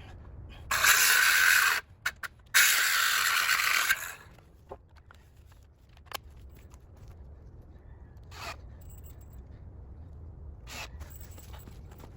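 Two loud bursts of hissing, scraping noise, about a second each with a short gap between, followed by faint scattered clicks and rustles.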